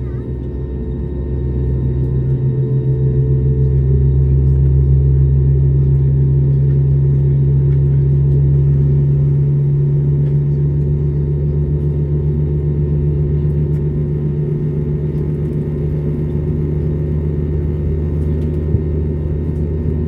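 Steady cabin drone of an Airbus A320neo during push-back and engine start: a low hum with a few faint steady tones above it, swelling over the first few seconds and then holding level. There is a small click near the end.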